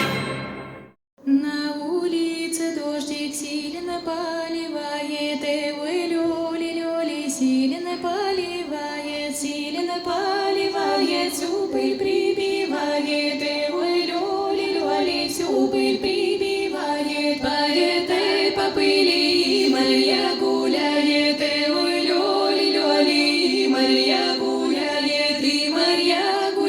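Women's voices singing a slow Russian folk round-dance (khorovod) song a cappella, several voices together in a stepwise melody, beginning after a second-long break near the start. A few sharp clicks sound now and then over the singing.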